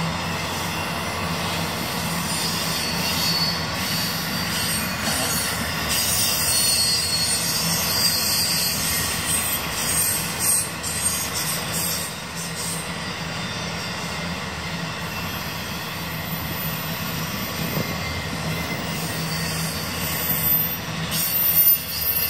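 BNSF intermodal freight train's cars rolling past, steel wheels squealing high-pitched over a steady rolling noise. The squeal is strongest about 6 to 13 seconds in.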